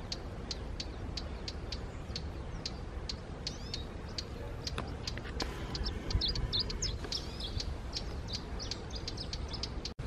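Small birds chirping: a short high call repeated about three times a second, with a cluster of quicker twittering notes about six seconds in, over a steady low rumble.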